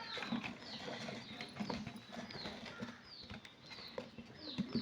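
A small bird gives a steady series of short, falling chirps, about two a second, with light taps in between.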